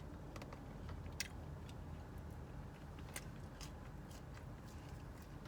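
Close-miked chewing and mouth sounds of a person eating, with scattered small clicks, the sharpest about a second in and again about three seconds in.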